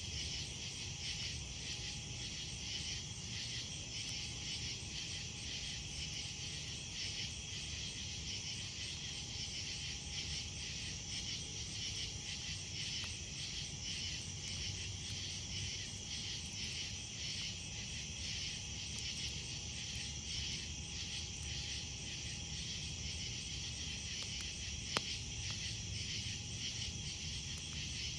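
A chorus of night insects chirping steadily, pulsing about three times a second, over a low rumble. A single sharp campfire pop about 25 seconds in.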